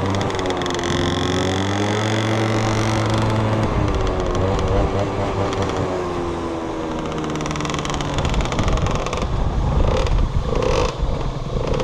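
Small motorbike engine running as it is ridden, its pitch drifting up and down with the throttle, over wind and road noise.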